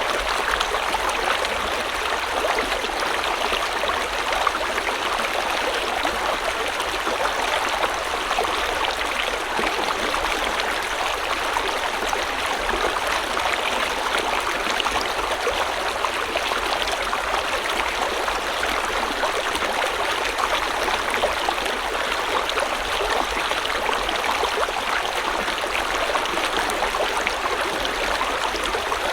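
A river or stream flowing: a steady, even rush of running water.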